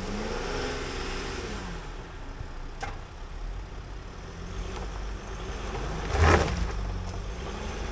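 Sprinter van's engine revving up and easing off twice as it inches forward onto traction boards to get through a section where it was losing traction. A loud thump about six seconds in, with a faint click near three seconds.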